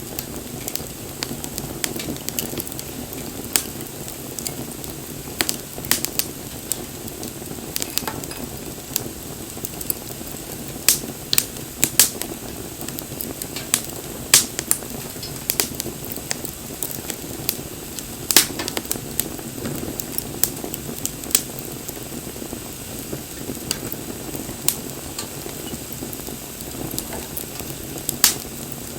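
Campfire burning: a steady low rush of flames with frequent irregular sharp crackles and pops, a few much louder snaps among them.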